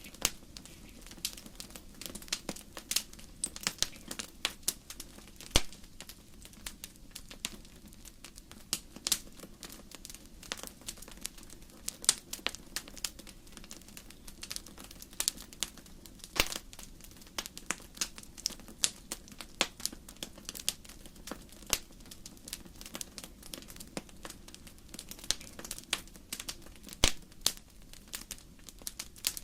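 Wood fire burning in a fireplace: the logs crackle with irregular sharp snaps and pops, several a second and now and then a louder one, over a soft steady low rumble of the flames.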